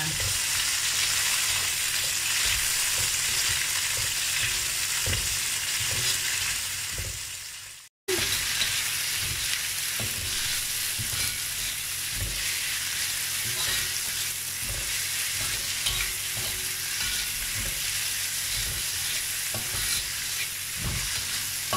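Sliced shallots and garlic sizzling in hot oil in a wok, stirred and scraped with a metal spatula that knocks against the pan. The sound cuts out for a moment about eight seconds in.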